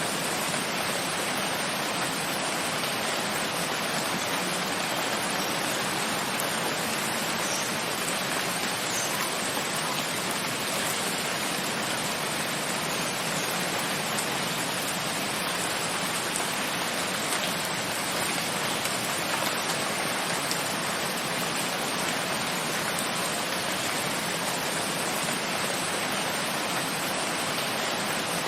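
Steady, even rain with no change in strength.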